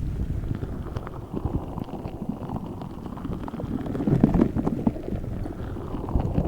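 A giant spiky stress ball filled with Orbeez water beads, squeezed and kneaded by hands: a continuous squishing with many small clicks and crackles, swelling about four seconds in.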